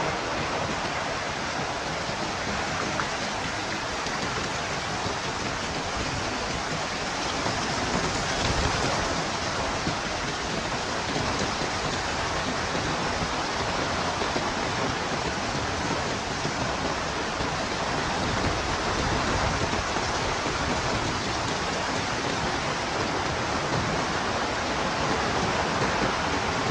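Heavy rain falling with wind, a steady dense hiss that stays even throughout.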